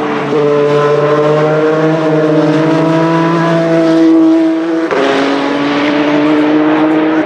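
Toyota TS050 Hybrid's 2.4-litre V6 racing engine accelerating hard, its pitch climbing steadily. It upshifts about five seconds in with a sudden drop in pitch, then climbs again and shifts once more at the very end.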